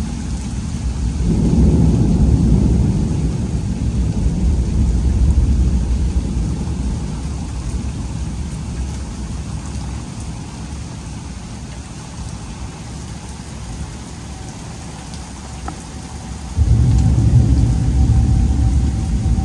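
Thunder from a supercell thunderstorm, a long low rumble that swells about a second and a half in and slowly fades, over the steady hiss of rain. Near the end, a loud low rumble starts abruptly.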